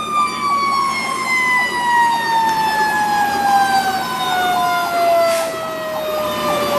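Fire engine's mechanical siren winding down, one long tone whose pitch falls slowly and steadily.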